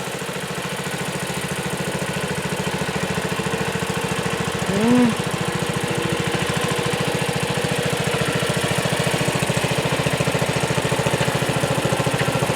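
Sears Suburban garden tractor engine running steadily with an even pulse, slowly growing louder. A short rising-then-falling tone cuts in briefly about five seconds in.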